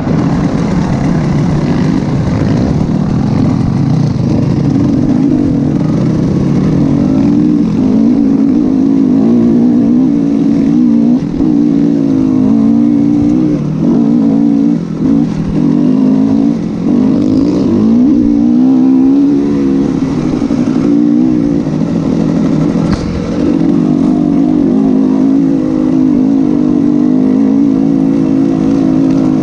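Motocross motorcycle engine running hard, its pitch rising and falling with the throttle, with a few brief drops as the throttle is let off.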